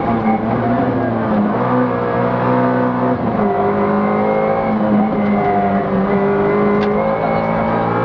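Rally car engine heard from inside the cockpit at speed, its pitch climbing as it revs and dropping sharply a few times at gear changes or lifts for the bends.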